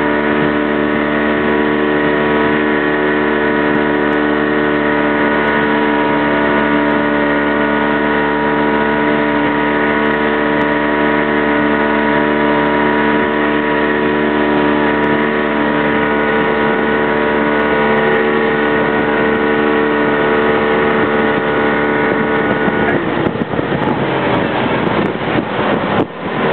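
Motorboat engine running at a steady pitch. About 23 seconds in, the engine tone breaks up and rough wind and water noise takes over.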